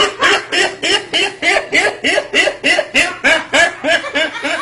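A voice laughing in a long, even run of giggles, about four a second, each giggle rising and falling in pitch.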